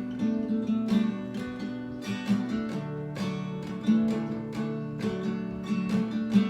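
Acoustic guitar strumming chords in a steady rhythm, the instrumental intro of a song.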